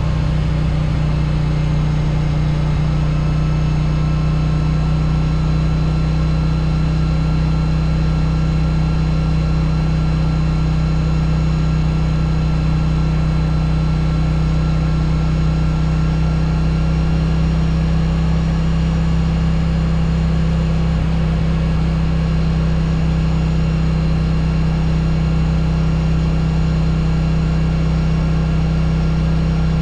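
Yamaha Virago 1100's air-cooled V-twin engine running at a steady, unchanging engine speed.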